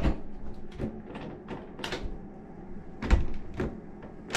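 A house door being handled and shut: a series of short knocks and clicks, the loudest a thump about three seconds in.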